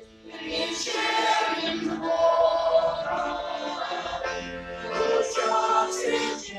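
Choir singing in sustained, held notes; the singing resumes after a brief break at the very start.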